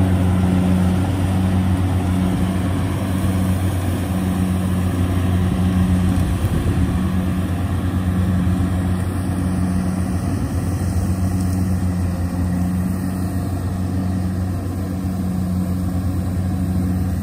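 Engine of a tracked rice-harvesting machine running steadily, a constant low engine note.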